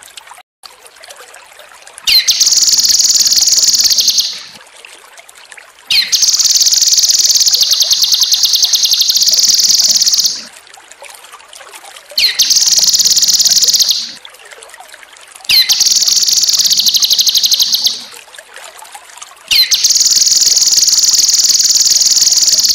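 Cucak kinoi singing five long bouts of very fast, high trills, each two to four seconds long, with a faint trickle of water between the bouts.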